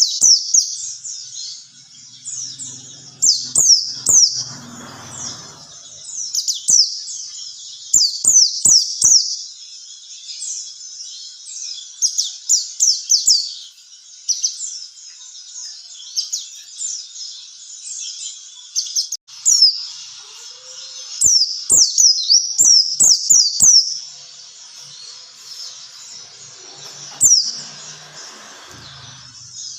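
White-eye (pleci) singing a long, fast, high twittering song of quick downward-slurred notes, in rapid runs that barely pause.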